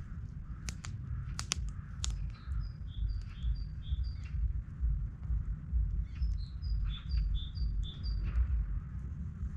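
A small bird singing: two phrases of short, quick high notes alternating between two pitches, one a few seconds after the other. A few sharp clicks sound in the first two seconds, over a steady low rumble.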